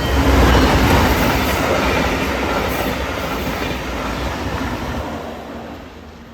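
Train rolling past on the tracks, wheels on rail giving a loud, noisy rush that peaks about half a second in and then fades steadily as the train moves away.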